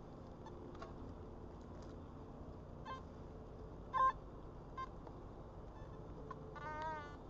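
Metal detector sounding short, clean beeps as its coil is swept over the ground. There are several beeps, the loudest about four seconds in, and a brief wavering tone just before the end.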